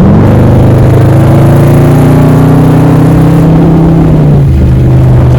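2016 Dodge Charger R/T's 5.7-litre Hemi V8 pulling under acceleration, its pitch rising slowly, then falling off about four seconds in.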